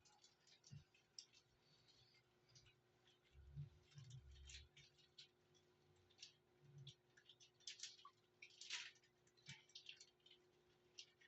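Faint, irregular clicks and ticks, with a few soft low thumps about halfway through.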